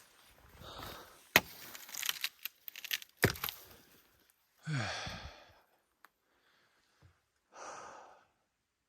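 Twigs and forest litter cracking sharply underfoot a few times, then a man's voiced sigh that falls in pitch about halfway in, and another breathy exhale near the end.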